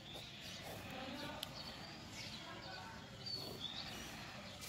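Faint birds chirping, with a few short, clear whistled notes over a low outdoor background hum.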